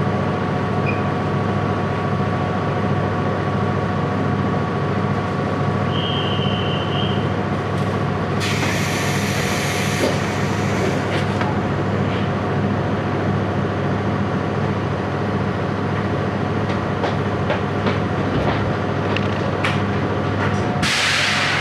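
Inside a JR Hokkaido Series 711 electric train car: a steady hum with a few fixed tones from the train's equipment. There is a short high tone about six seconds in, and a hiss of air about eight seconds in and again near the end.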